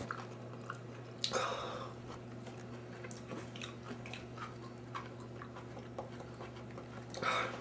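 Chewing of pickled jalapeño pepper slices: soft wet chewing and small mouth clicks, with a louder noisy sound about a second in and again near the end, over a steady low hum.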